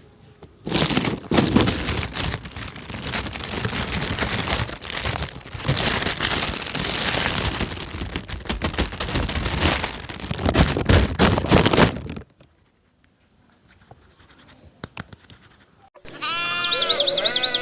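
Recorded animal calls: about eleven seconds of a loud, harsh, noisy din. After a fainter stretch, a run of rapid pitched calls that bend up and down starts near the end.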